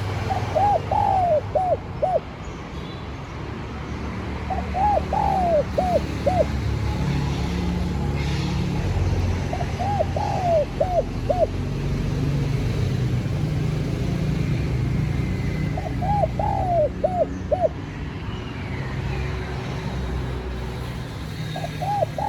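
Spotted dove cooing: a short phrase of about five rising-and-falling coos, given five times, roughly every five to six seconds. A steady low rumble runs underneath.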